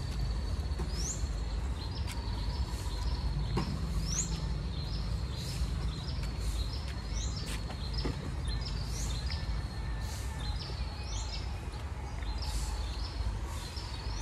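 Birds chirping outdoors: short rising chirps every second or two, with a thin steady high tone, over a steady low background rumble.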